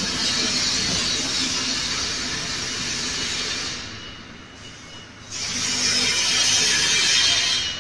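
Factory production-line noise: a loud, steady hiss over a low rumble. The hiss drops away for about a second past the middle, then comes back.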